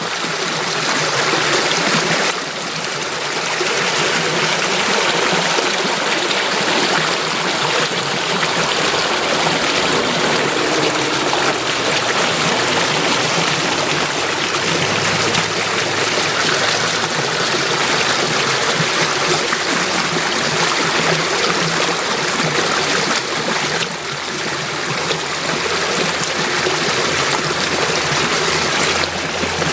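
Water flowing in a stream, a steady dense rushing and trickling with no break.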